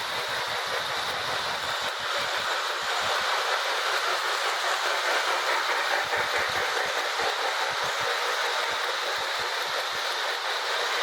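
Marx 1666 toy train locomotive running on its track: a steady motor and wheel whir, with irregular clicks of the wheels passing over rail joints.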